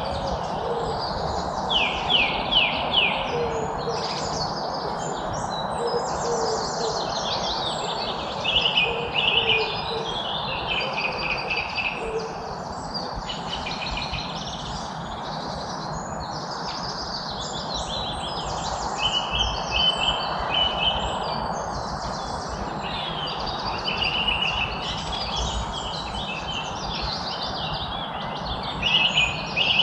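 A chorus of several songbirds singing, with overlapping high chirps and fast trills throughout, over a steady hiss. In the first half, a few short, low hooting notes sound beneath the songs.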